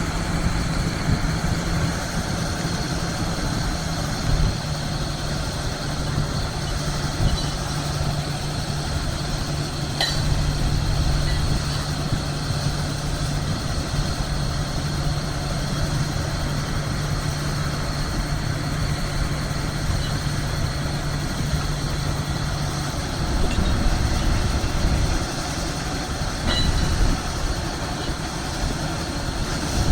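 An engine running steadily, a continuous rumble with a low hum that shifts slightly in pitch about four seconds in and drops out about three-quarters of the way through.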